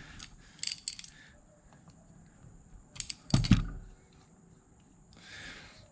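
Small metallic clicks and scrapes of a brass jet being handled and screwed back into a Suzuki GS500E carburetor body, with a louder knock a little over three seconds in.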